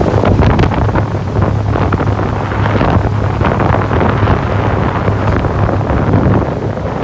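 Wind buffeting the microphone in irregular gusts over the steady low drone of a ship's engine, with water rushing past the hull.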